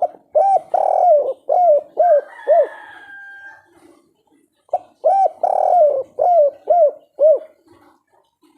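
Spotted dove (tekukur) singing its kuk-3 song: two cooing phrases of about six rounded coos each, the second starting about halfway through. A faint thin whistle-like tone sounds briefly between the two phrases.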